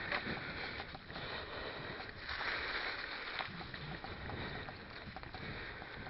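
Stels mountain bike rolling over a rough dirt trail: tyre noise with a steady scatter of small rattles and clicks from the bike, and wind on the microphone. A louder stretch of hiss comes a little over two seconds in and lasts about a second.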